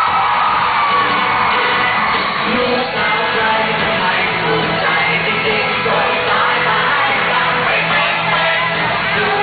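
Live pop concert music with a singer, heard loud and steady, with audience members shouting and whooping over it.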